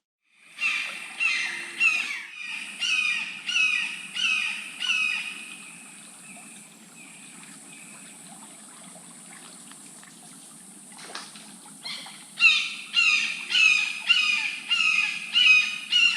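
A bird calling a loud series of harsh, downslurred notes, about two a second, that fades out after about six seconds and starts up again near the end. A faint steady high hiss runs underneath.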